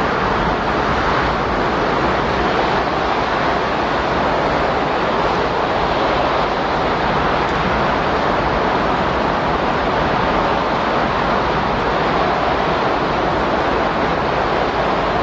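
Windstorm sound bed: a loud, steady rushing of wind with no separate gusts or breaks.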